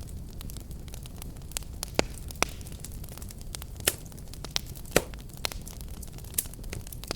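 Wood fire burning, with a steady low rumble of flames and irregular sharp crackles and pops, several a second apart.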